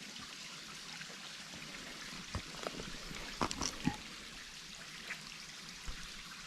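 Small waterfall at low flow, a thin steady trickle of water. A few brief knocks and snaps come between about two and four seconds in, with two more later.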